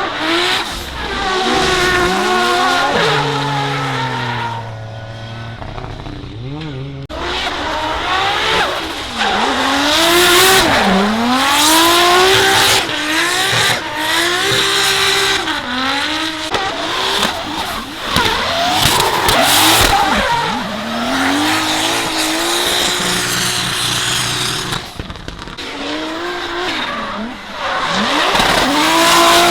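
Drift car engines revving, their pitch climbing and dropping again and again as the throttle is worked, over the squeal of sliding tyres. Revs settle to a low, steady note for a few seconds, then burst back in loudly.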